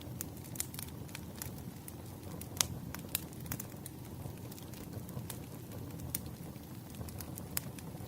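Campfire burning with a steady low rumble and irregular sharp crackles and pops of burning wood, one loud pop about two and a half seconds in.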